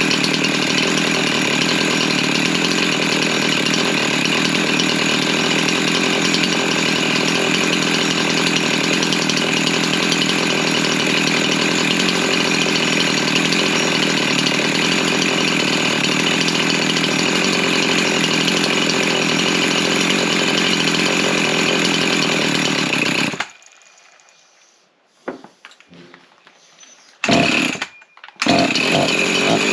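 Freshly rebuilt Husqvarna 353 chainsaw's two-stroke engine running steadily. It cuts off abruptly about 23 seconds in. After a few quieter seconds it runs briefly, stops, and runs again near the end.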